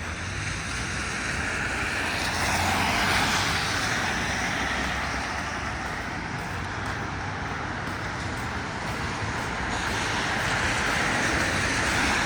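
Road traffic on a wet street: the hiss of car tyres on rain-soaked pavement, swelling as one vehicle passes about three seconds in and another near the end.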